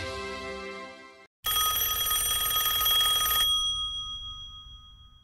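Background music fading out, then after a brief gap a closing chime of a few steady high tones, held for about two seconds and then ringing away.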